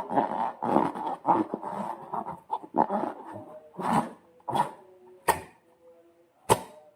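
Slime being squished and worked inside or against rubber balloons: wet squelching with short rubbery squeaks and a few sharp snaps, the loudest about five and six and a half seconds in.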